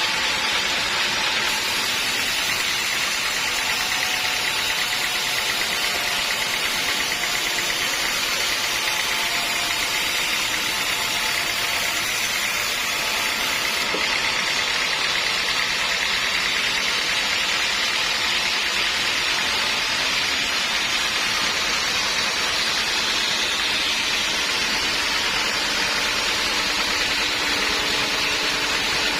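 Sawmill machinery running with a steady, continuous noise that holds level throughout.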